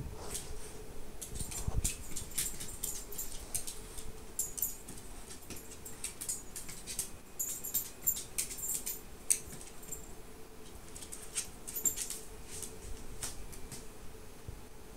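Miniature pinscher playing alone with a toy: a busy run of quick clicks, rustles and high-pitched squeaks from its teeth and paws on the toy, over a faint steady hum.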